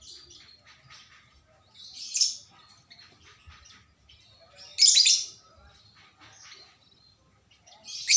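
A bird chirping: three loud, high-pitched bursts of calls about three seconds apart, with softer short chirps in between.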